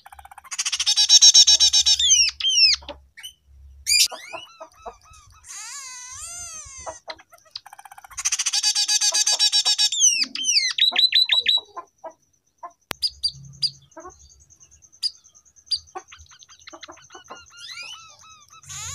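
Scaly-breasted munia singing a canary-style song. Two fast, buzzy rattling trills come about a second in and again about eight seconds in, with runs of gliding whistled notes between them. In the second half a thin, steady high whistle runs under short, sharp chips.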